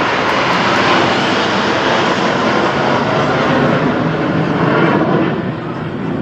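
Aircraft flying past: a loud, steady rush of engine noise that dips slightly about five seconds in.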